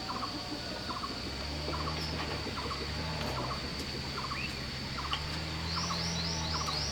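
Farmyard birds calling: a short call repeats about once a second, and a run of quick high chirps comes near the end. Under them run a steady high insect whine and, from about a second and a half in, a low hum.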